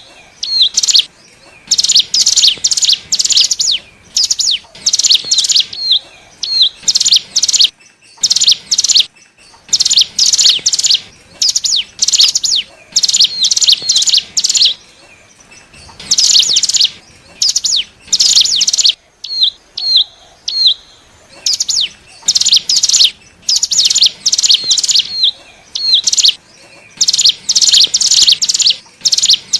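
Ciblek gunung (a mountain prinia) calling loudly in rapid, high-pitched chirping bursts about a second long, repeated again and again with short pauses and short curved notes between them. This is a lure recording meant to draw in wild birds of the same kind.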